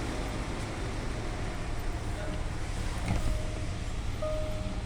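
Low steady rumble of a vehicle engine idling. From about two seconds in, a single-pitched beep repeats about once a second.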